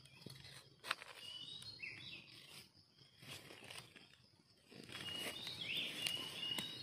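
Faint outdoor ambience with small birds chirping in short high rising-and-falling notes, in a bout about two seconds in and another near the end. There is a single sharp click about a second in.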